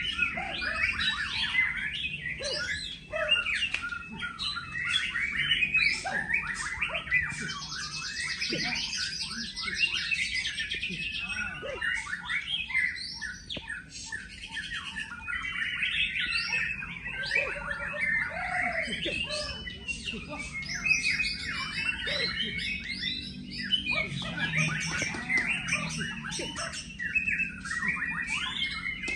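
Many songbirds singing at once: a dense, unbroken chorus of overlapping whistles, trills, chirps and harsh calls.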